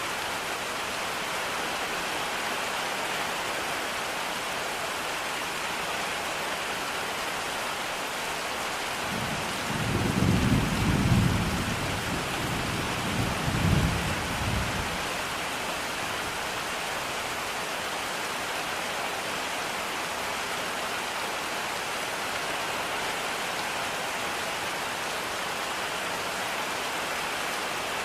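Steady rain falling. About ten seconds in, a low roll of thunder comes in, swells twice and dies away about five seconds later.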